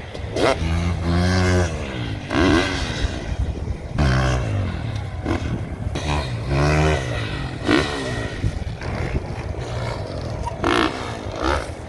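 Motocross dirt bikes riding the track, their engines revving up and dropping back again and again as the riders accelerate, shift and back off, with several loud surges.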